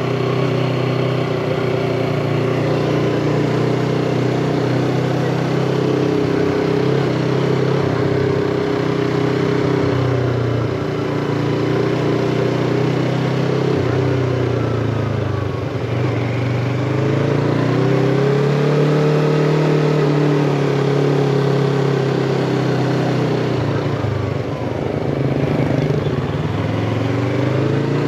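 Yamaha MT-25's 250 cc parallel-twin engine running while riding. Its pitch climbs and falls back a little past the middle, then rises again near the end as the throttle is worked.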